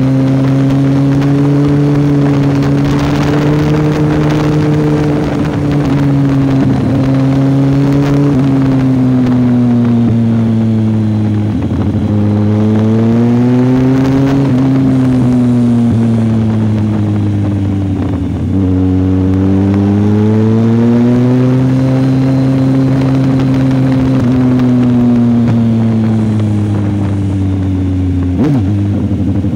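Kawasaki ZZR1400's inline-four engine running under way, heard from the rider's seat. Its note rises and falls several times as the throttle is opened and closed, with a few brief breaks and wind rush over the bike.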